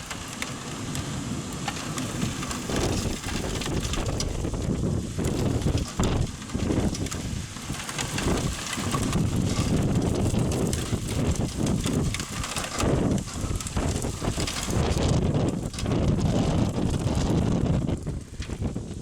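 Thunderstorm: steady rain and gusting wind, with low rumbling swells that rise and fall several times.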